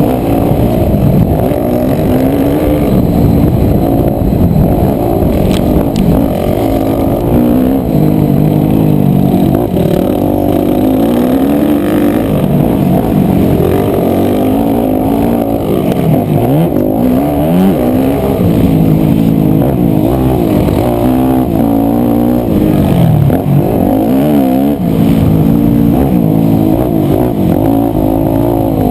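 A 250cc four-stroke single-cylinder motocross bike engine, heard onboard, revving up and dropping back over and over as it is ridden hard around the track.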